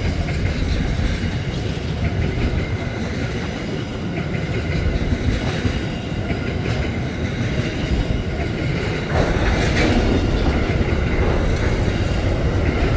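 Double-stacked container wagons of a long freight train rolling past, wheels clattering over the rail joints in a steady rumble that grows a little louder about nine seconds in.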